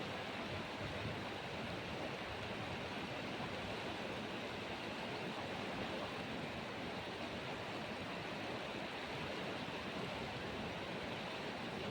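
Rushing whitewater of the Beas River, a steady, even roar of water with no breaks.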